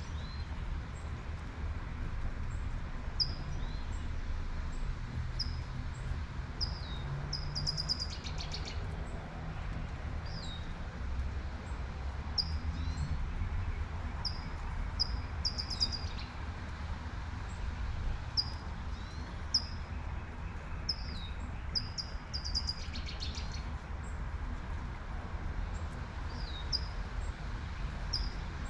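Small birds chirping, short high notes and down-slurred calls every second or two, over a steady low city rumble and the light hiss of gentle rain.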